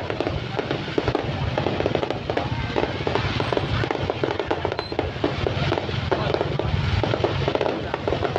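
Fireworks display going off: a dense, continuous run of bangs and crackles with no pause.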